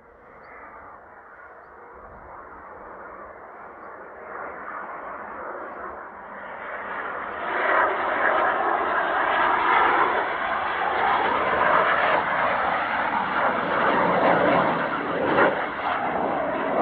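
Jet noise from Blue Impulse Kawasaki T-4 trainers, faint at first and building over about seven seconds into a loud, sustained roar.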